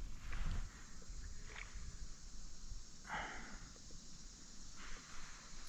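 Quiet background with a short breathy puff about three seconds in, like a person exhaling through the nose.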